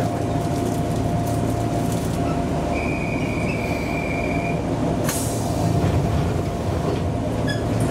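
Electric commuter train running, heard from inside: a steady rumble of wheels and motors with a thin steady whine. A high wheel squeal sounds for about two seconds around three seconds in, and a sharp clack comes about five seconds in.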